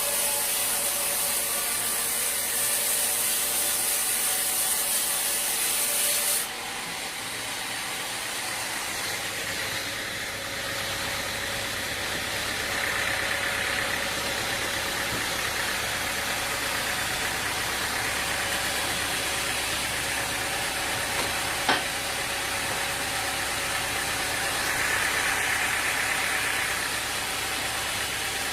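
Engine-driven machinery running steadily. A high hiss over it stops suddenly about six seconds in, and there is one sharp knock later on.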